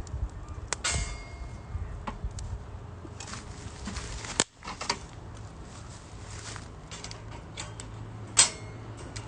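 Metal camp cookware and utensils clinking and clattering, one clink about a second in ringing on briefly and the loudest one near the end, over scattered small snaps from the wood fire.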